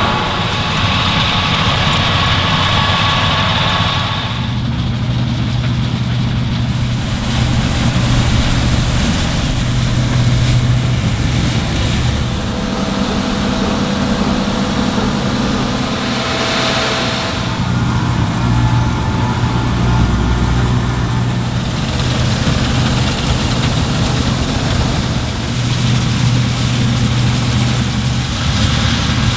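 Farm machinery engines, tractors and harvesters, running steadily, with the engine sound changing abruptly several times between different machines.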